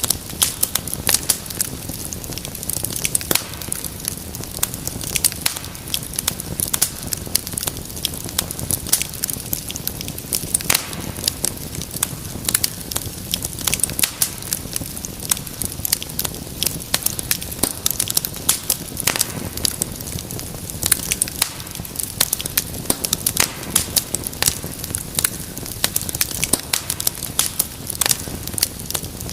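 Wood fire crackling steadily, with frequent sharp pops over a low, even rumble of burning.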